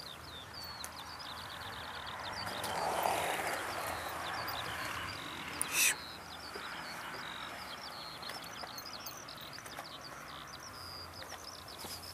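Small birds singing continuously, a rapid string of short high chirps, over a faint rushing noise that swells from about two to five seconds in. A single short sharp crack just before six seconds is the loudest sound.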